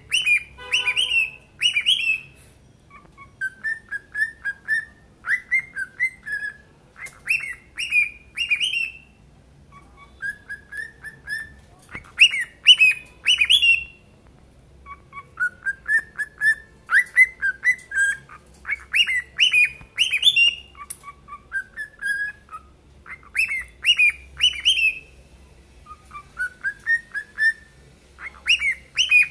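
Young tame cockatiels whistling their song: phrase after phrase of short, rising whistled notes in quick groups, with brief pauses between phrases.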